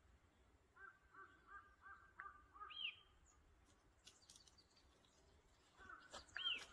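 Faint bird calls: a quick run of short repeated notes, then a single higher arched note. A similar run with higher arched notes comes again near the end.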